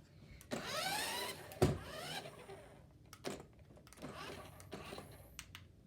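Small electric motor of a DEERC RC car whining briefly, its pitch rising and falling, followed by a single sharp knock and a few light clicks.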